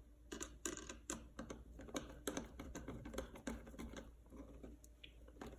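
Light, irregular clicks and taps of small hardware being handled: a copper ground wire being worked through a connector on an electrical floor outlet box.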